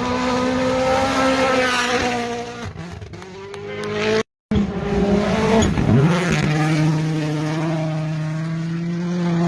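Rally car engines running hard at high revs, in two separate passes joined by an abrupt cut about four seconds in. The first engine holds a steady high note and then falls away. The second swings in pitch, then climbs and holds a steady note.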